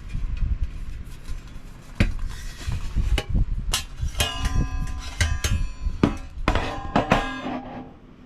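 Metal camping gear knocked and clinked together while being handled, a string of sharp clanks, several of them ringing on briefly, busiest in the second half.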